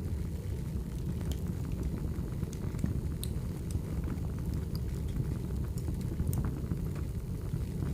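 Firewood burning, with scattered crackles and pops over a low, steady rumble.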